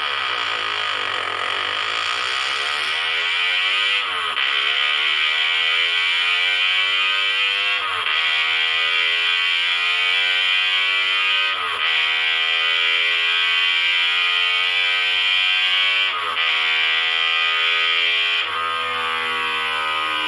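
Suzuki GSX-R 125's single-cylinder four-stroke engine on a dyno run through a Yoshimura racing exhaust, revving up with a rising pitch and dropping back at each gear change, about every four seconds.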